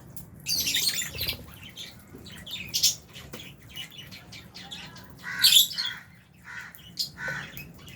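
Lovebirds giving shrill chirps and squawks in short bursts, with the loudest burst a little past halfway.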